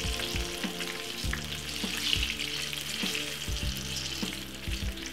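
Banana fritters sizzling in hot oil in a frying pan, with a few short clicks of a spatula against the pan as the fritters are turned.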